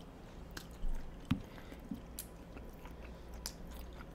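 Close-miked mouth sounds of people chewing and eating forkfuls of cheesy baked spaghetti squash: scattered wet clicks and smacks, with the sharpest click a little over a second in.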